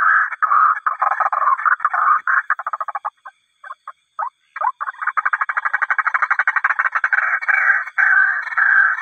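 White-breasted waterhen calling in a loud, harsh repeated series. The calls quicken into rapid pulses, break off briefly a few seconds in, then resume as a fast even run before slowing again near the end.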